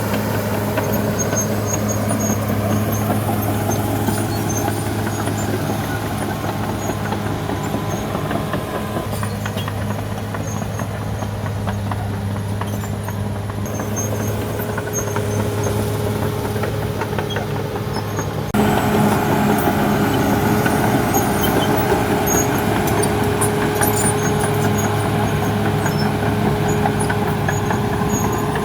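Caterpillar D6R XL bulldozer's diesel engine running steadily, with faint high ticks scattered over the drone. About two-thirds of the way through, the engine sound abruptly gets louder.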